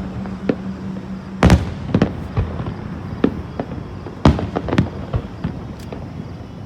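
Aerial fireworks shells bursting in an irregular volley of bangs, the loudest about one and a half seconds and four seconds in.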